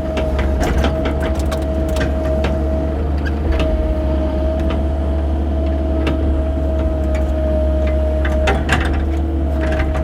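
Excavator engine running steadily under a constant hydraulic whine, with scattered clicks and knocks from the digging bucket working through dirt and rock.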